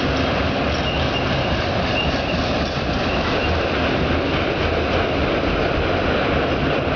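Union Pacific empty autorack freight train rolling past: a steady rumble and rattle of the cars' wheels on the rails.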